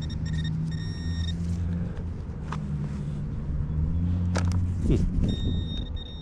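Metal detector target tone sounding in short steady beeps, twice at the start and again about five seconds in, signalling metal still in the dig hole. Under it a motor vehicle's engine hums steadily, with a few sharp clicks of digging.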